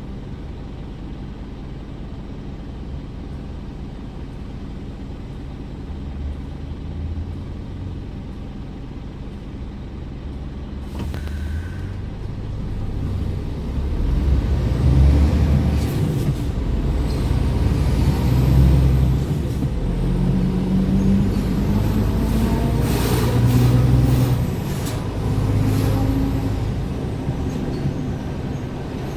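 Scania R410 truck's 13-litre six-cylinder diesel running low and steady, then a short hiss of compressed air about eleven seconds in. After that the engine works harder, its note climbing and dropping back several times as the automated gearbox shifts up through the gears.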